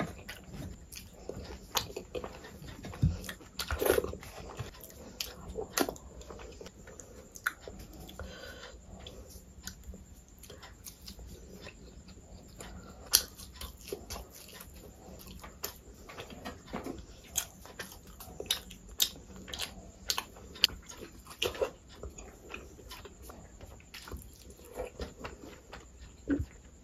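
Close-miked chewing of soft Bengali sweets (sandesh and rajbhog), eaten by hand, with many small irregular wet mouth clicks.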